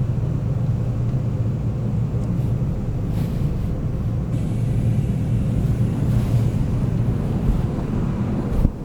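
Seoul subway train running, heard inside the carriage: a steady low rumble of wheels and motors on the track. Near the end there is a brief thump, after which the noise drops a little.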